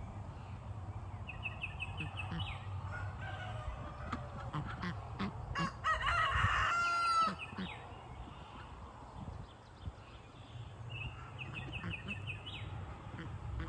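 A rooster crows once, about six seconds in, a single pitched call lasting about a second and a half. A short run of quick, high chirps comes twice, once near the start and once near the end.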